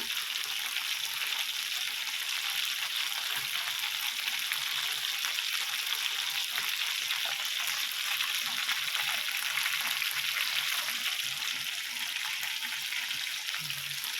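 Chicken kebabs sizzling steadily on an oiled indoor electric grill, fat and oil spitting in a continuous crackling hiss.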